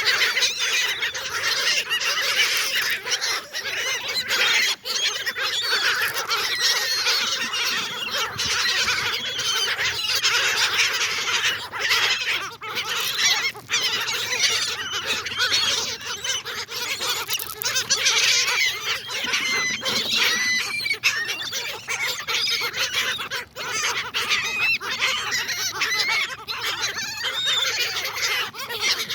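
A flock of gulls, adults and immature birds, calling continuously in a dense tangle of overlapping squeals and cries, with many short sharp ticks among them.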